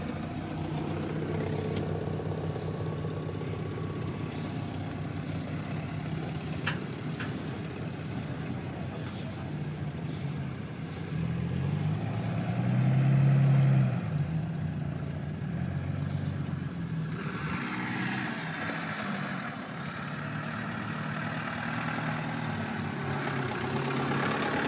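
Off-road 4x4 engines running at low revs, one growing louder for a couple of seconds about halfway through as it revs or drives close, followed a few seconds later by a swell of rushing noise.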